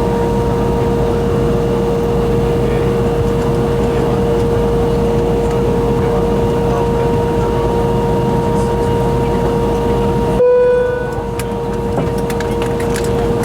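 Embraer ERJ145 regional jet idling at the gate: a steady, high turbine whine over a low rumble. There is a brief abrupt break about ten seconds in, after which the whine resumes at the same pitch.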